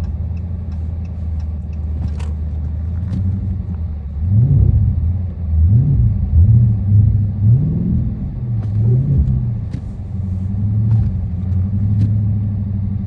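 Dodge Charger Scat Pack's 392 (6.4-litre) HEMI V8 running at a steady low drone, then revving up and down about four times in quick succession as it is given a little gas, before settling back to a steady drone.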